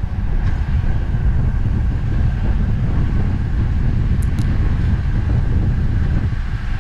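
Wind buffeting the microphone of an action camera on a road bicycle ridden at race speed: a steady, loud low rumble with faint tyre and drivetrain noise under it, and a couple of light ticks about four seconds in.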